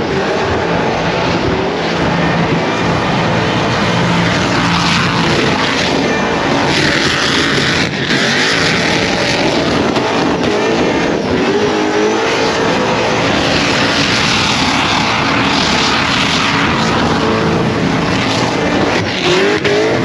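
Car doing a burnout: the engine is held at high revs, rising and falling, under a loud steady hiss and screech from the spinning tyres.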